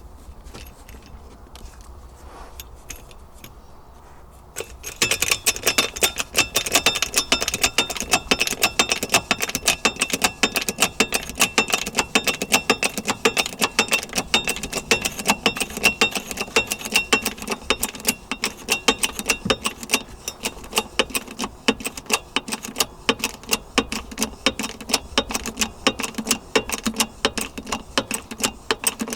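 Rapid metal-on-metal striking, several blows a second with a light ringing, starting about five seconds in: hammering the bent inside edge of a steel implement disc straight.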